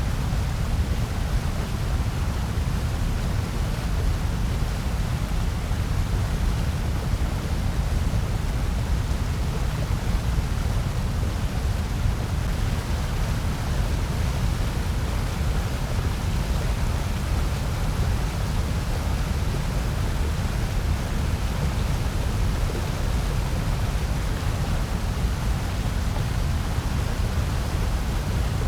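Continuous synthetic white noise, a steady, unchanging rushing hiss that is heaviest in the deep bass with a thinner hiss above.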